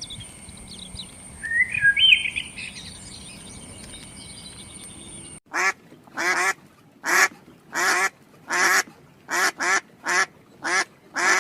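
Faint bird chirps over a steady high-pitched hum. After an abrupt change about five seconds in come about nine loud, short, evenly spaced calls from a farm bird, roughly one and a half a second.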